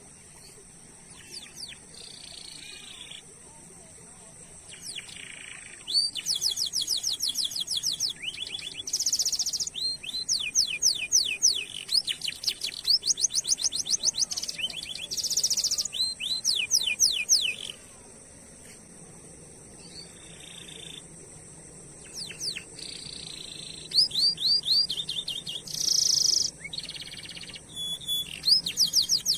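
Domestic canary singing: long, fast trills of rapidly repeated high sweeping notes, in two main stretches with a softer pause of short chirps between them. A thin steady high-pitched tone sounds underneath.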